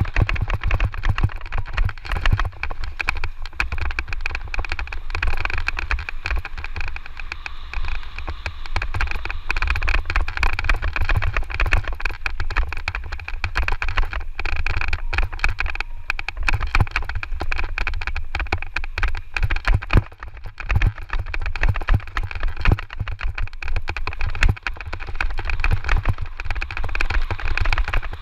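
Electric mountain bike riding fast over a rough dirt trail: wind buffeting the camera's microphone as a constant low rumble, with frequent clattering knocks and rattles from the bike over the terrain.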